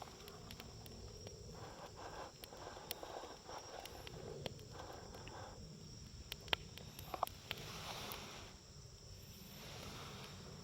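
Wood campfire burning quietly, with faint scattered crackles and a few sharper pops.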